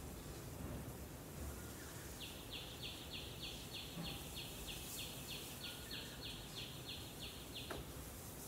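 Outdoor background noise with a bird calling a long, even run of short, high sweeping notes, about three a second, starting about two seconds in and stopping shortly before the end.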